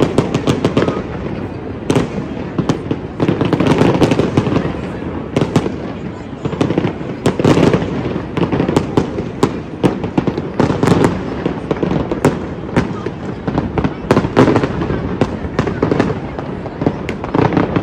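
Aerial fireworks bursting in a dense, irregular run of sharp bangs that goes on without a break.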